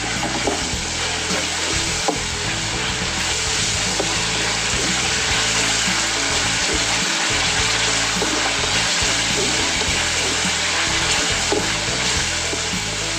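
Ground spice paste sizzling steadily in hot oil in a wok, stirred with a slotted spatula, with small scrapes and taps. The paste is being sautéed with lemongrass, bay leaves, lime leaves, galangal and ginger until the leaves wilt.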